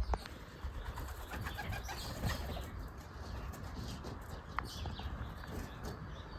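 Young racing pigeons: scattered wing flaps and soft calls, with a few brief high chirps.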